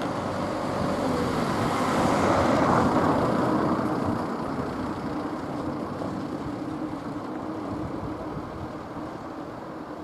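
Train running: a broad rumbling noise with a steady low hum underneath, swelling about two to four seconds in and then easing off.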